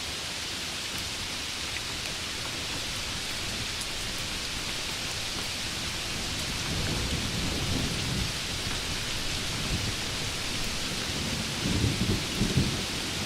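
Steady heavy rain with thunder: low rumbling builds from about halfway, and several louder rolls come near the end.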